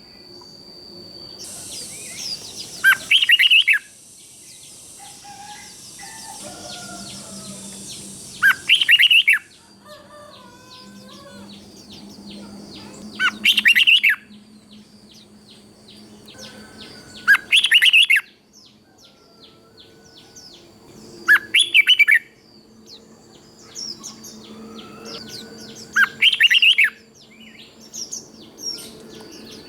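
Red-whiskered bulbul singing: loud, short, whistled song phrases repeated about every four to five seconds, six in all, with softer chirps between.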